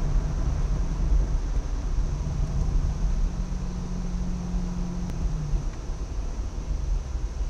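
Car engine heard from inside the car on track, holding a steady note over low road and wind rumble as the car slows for a bend. The engine note steps down about five seconds in.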